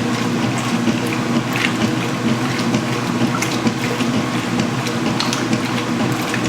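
Huebsch (Speed Queen) commercial washing machine filling with water: a steady rush of incoming water over a low hum, with scattered small clicks.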